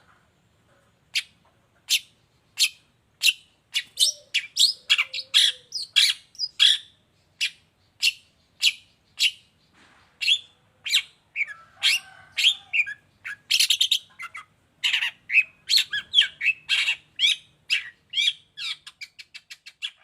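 Long-tailed shrike calling in a long run of short, sharp, scratchy notes. They come about two a second at first, crowd together more thickly through the middle, and end in a quicker chatter.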